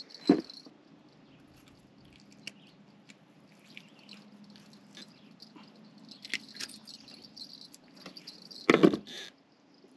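Scattered small clicks and handling knocks over a faint high trill, with a sharp knock about a third of a second in and a louder knock with a short rattle near the end.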